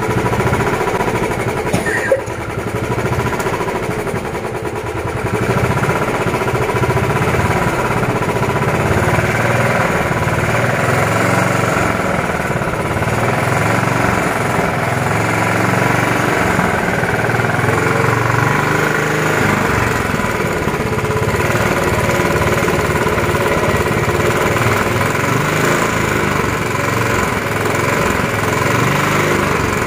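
Royal Enfield Bullet 350's single-cylinder four-stroke engine running and being revved, its speed rising and falling throughout, with a quieter spell a few seconds in.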